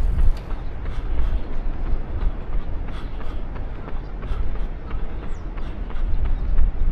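A runner's footsteps striking pavement at a steady pace, about three strides a second, over a low steady rumble that swells near the start and the end.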